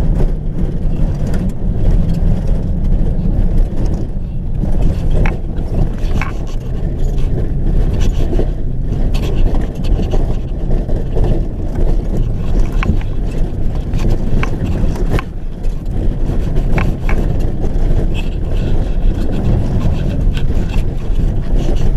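Steady low rumble of a vehicle driving, with a few faint clicks or knocks now and then.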